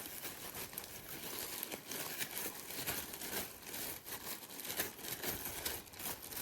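Crinkling and rustling with many small irregular clicks and taps as the dust cup of a Bissell CleanView XR Pet stick vacuum is emptied of debris.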